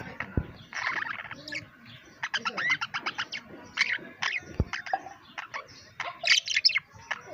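Pet budgerigars chirping and warbling in quick runs of short chirps, with a couple of sharp clicks.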